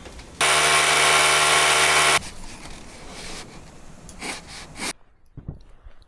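A power tool runs loudly at one steady pitch for about two seconds, starting and stopping abruptly. Quieter scraping and a few knocks follow.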